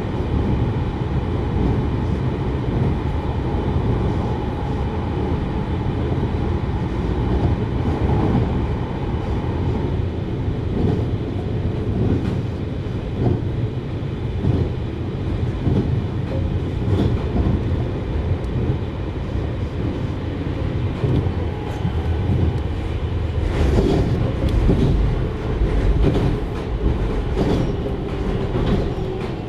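JR Hokkaido 733 series electric train running, heard from inside the car: a steady rumble of wheels on rail. A faint steady tone fades out about a third of the way in, and a short run of rail-joint knocks comes near the end.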